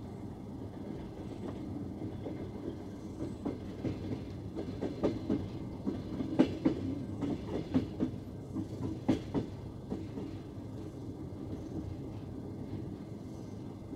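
Passenger train coach rolling along the track: a steady low rumble with a run of sharp wheel clacks, loudest from about four to ten seconds in.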